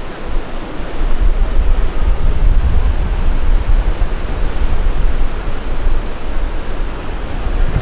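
Wind buffeting the microphone: a loud rushing noise with an uneven low rumble.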